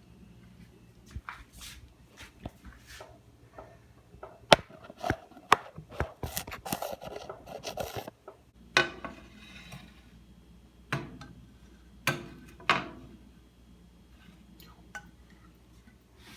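Kitchen clatter of dishes and utensils being handled: a run of sharp clicks, knocks and scrapes, busiest in the middle and thinning out after about 13 seconds.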